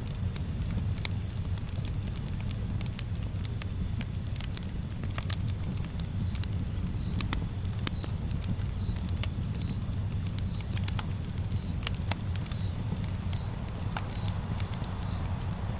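Campfire burning, with scattered sharp crackles and pops over a steady low rumble. From about six seconds in, a faint high chirp repeats roughly once a second.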